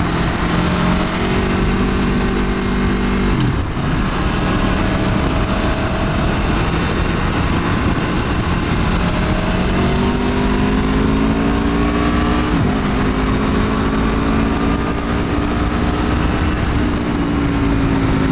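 Aprilia Tuono V4's V4 engine pulling under load while riding, its pitch climbing steadily and dropping sharply at upshifts about three and a half seconds in and again about twelve and a half seconds in, with wind and road noise underneath.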